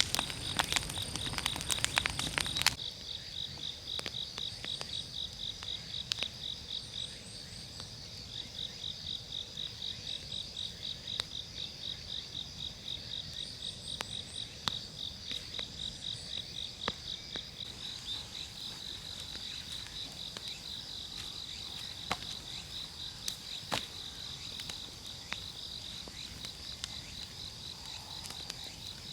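Insects chirping in a steady pulsing rhythm. A wood campfire crackles densely for the first few seconds, then gives occasional sharp pops.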